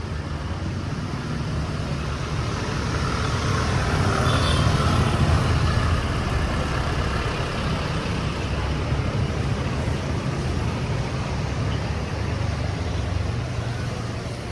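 Street traffic: vehicle engines running in the road, one passing close and loudest about four to six seconds in.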